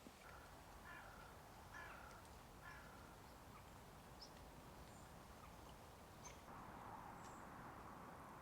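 Near silence outdoors with faint distant bird calls: four short calls about a second apart in the first three seconds, then a few tiny high chirps.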